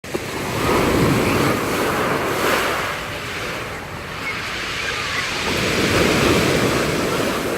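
Mediterranean surf: waves breaking and washing up a pebble beach, swelling about a second in and again around six seconds, with wind buffeting the microphone.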